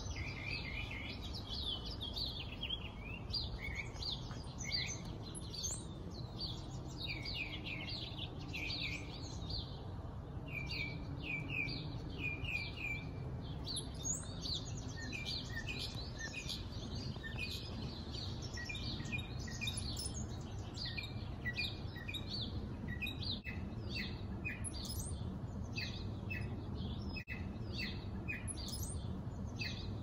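Birds chirping and singing: a busy run of short high chirps throughout, over a low steady background rumble.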